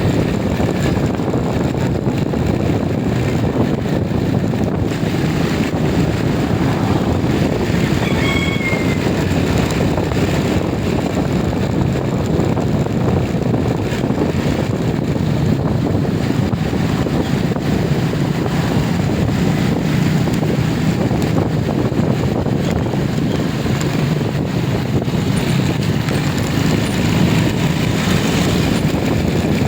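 Steady rumble and road noise of a moving vehicle, with wind on the microphone. A brief high chirp comes about eight seconds in.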